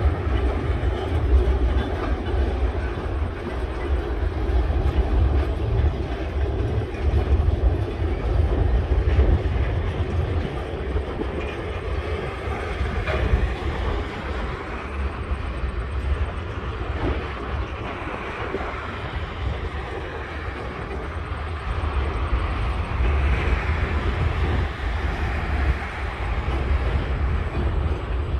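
Empty log wagons of a freight train rolling across a concrete rail bridge: a steady low rumble of steel wheels on the rails, with an occasional clack.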